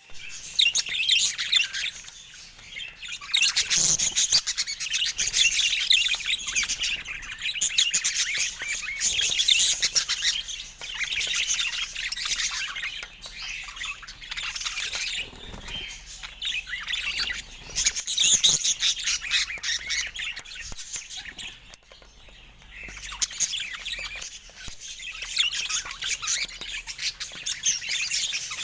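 Budgerigars chirping and chattering almost without pause, a busy high-pitched twittering that swells and fades in loudness.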